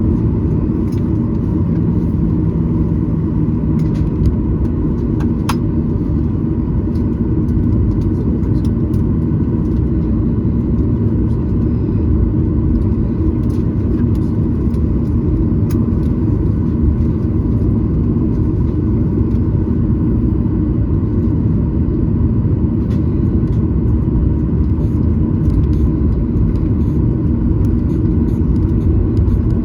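Cabin noise of a Boeing 737-900ER taxiing: a steady low rumble from its CFM56 engines at idle and the rolling airframe, with a few faint clicks, the sharpest about five and fifteen seconds in.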